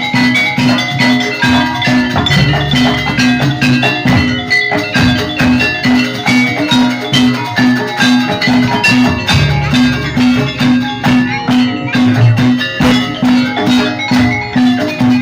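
Jaranan dance accompaniment in the gamelan style: pitched mallet percussion plays a busy repeating melody over a steady low struck note, about two and a half beats a second, with drums.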